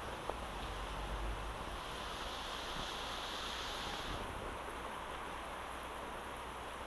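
Steady rain falling, an even hiss, with a higher-pitched hiss swelling for about two seconds in the middle.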